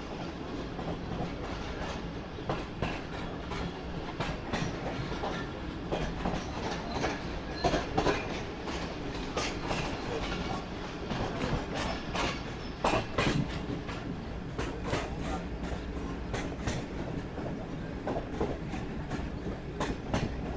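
Pakistan Railways passenger train running: a steady low rumble with irregular clicking and knocking of the wheels over the rails, loudest about a third and two-thirds of the way through.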